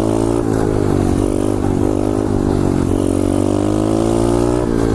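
2015 SSR 125cc pit bike's single-cylinder engine running at a held throttle in second gear during a wheelie, its pitch wavering slightly with small throttle corrections.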